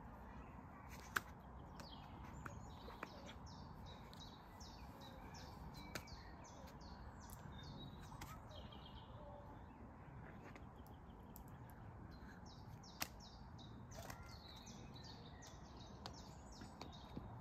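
Quiet woodland ambience with a songbird singing two long runs of quick, high, repeated notes, one in the first half and one near the end, and a few sharp taps.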